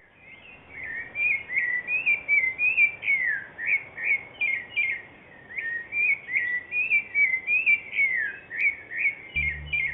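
A songbird singing a continuous run of quick, slurred whistled chirps, several notes a second, some gliding down in pitch. A low steady tone from meditation music comes in just before the end.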